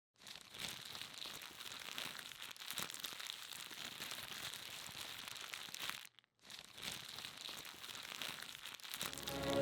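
Faint crackling, rustling noise made of many small clicks. It cuts out briefly about six seconds in, then resumes.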